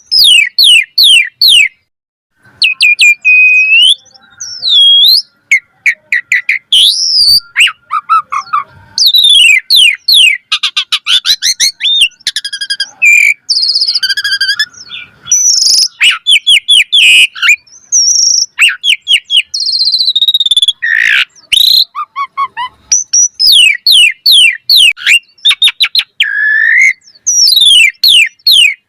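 Asian pied starling singing a long, varied song in full voice: rapid whistles, rising and falling sweeps and trains of harsh clicks, broken by short pauses.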